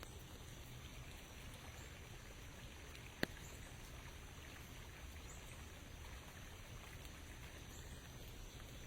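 Light rain falling, a faint steady patter, with one sharp tap a little after three seconds in.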